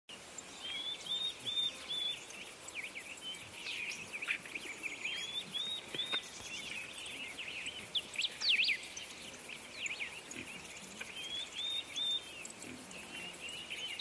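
Several songbirds singing and calling, one repeating a short phrase of four or five quick notes three times.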